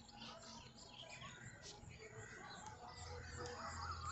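Faint birdsong: scattered short chirps from small birds, with a quick run of repeated call notes near the end, over a faint low hum.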